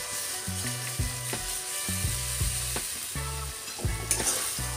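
Ground spinach paste going into hot oily onion-tomato masala in a kadai, sizzling as it fries and stirred with a wooden spatula.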